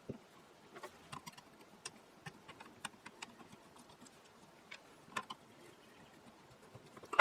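Small clicks and taps of parts being handled and set down on a workbench, scattered and irregular, with a louder knock at the very end.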